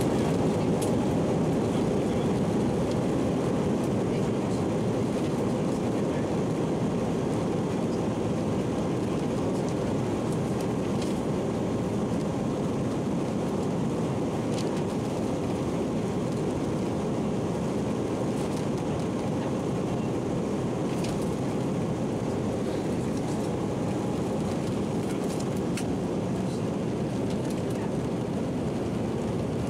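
Steady cabin noise of an Airbus A319-131 in flight, heard from a window seat: a constant low rushing of airflow and engine noise that eases off very slightly over the half minute.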